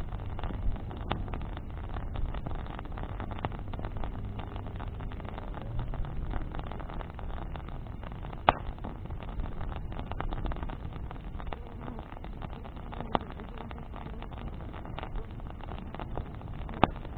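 Wood bonfire burning: a steady low rush with scattered crackles and a few sharp pops from the burning branches, the loudest about halfway through and again near the end.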